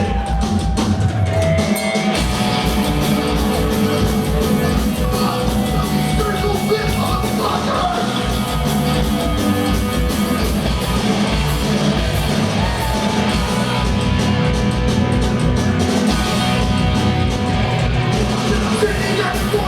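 Punk rock band playing live: loud distorted electric guitars, bass and drum kit, with shouted vocals.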